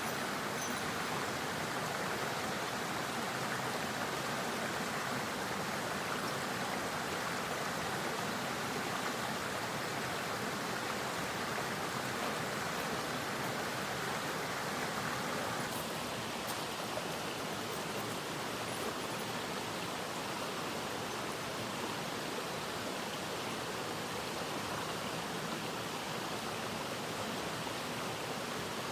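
Steady rushing of a mountain stream, an even wash of water noise that shifts slightly in tone about halfway through.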